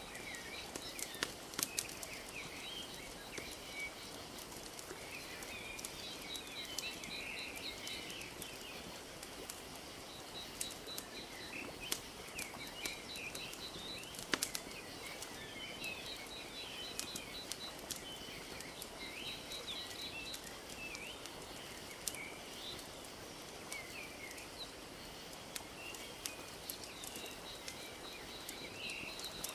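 Wood fire crackling with scattered sharp pops, over a steady wash of lake water lapping. Birds chirp throughout, with a rapid trill repeating every few seconds.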